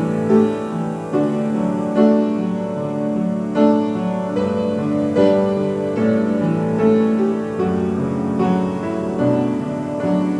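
Piano playing a slow, even piece, with new chords struck about every second and a half and left to ring.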